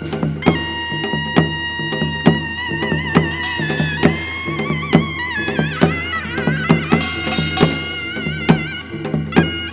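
Korean traditional folk-song accompaniment playing an instrumental passage: a sustained melody line with wide vibrato that slides down in pitch around the middle, over a steady drum beat of about two strokes a second.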